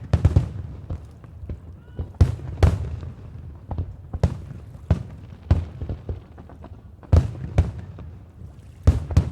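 Aerial firework shells bursting in quick, irregular succession, each bang followed by a low rumbling echo. The heaviest bursts come right at the start, around two to three seconds in, and near the end.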